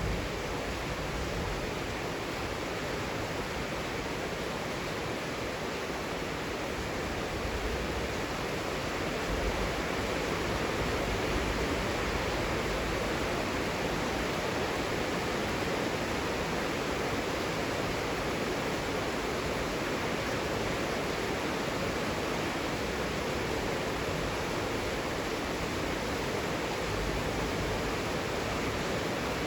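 Heavy rain falling steadily, an even dense hiss without separate drops standing out.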